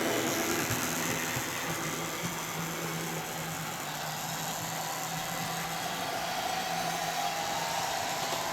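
Model train running on the layout's track: a steady electric motor hum with the running noise of small wheels on rail.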